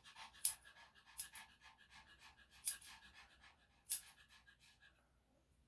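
A Yorkshire Terrier panting rapidly in an even rhythm, stopping near the end. Four sharp snips of grooming scissors cut through it, the loudest sounds here.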